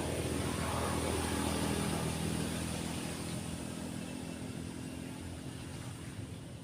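A passing motor vehicle's engine, loudest in the first few seconds and then fading away, over the steady wash of breaking waves.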